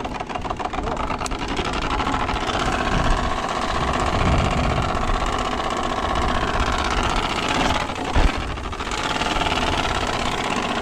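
Turbospoke bicycle exhaust buzzing like a small motorbike: its plastic card is flicked by the spokes as the wheel turns, making a fast rattle that grows louder over the first few seconds. A single knock comes near the end.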